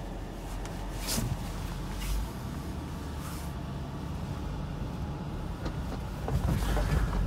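BMW E46 sedan's engine running steadily, heard from inside the cabin as the car drives slowly on ice and packed snow. A couple of short clicks come about one and two seconds in, and louder knocks and thumps come near the end.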